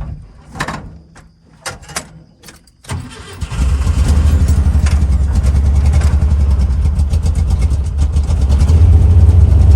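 Volkswagen car engine starting: a few clicks and knocks, then a short crank and the engine catches about three and a half seconds in and settles into a steady idle, a little louder near the end.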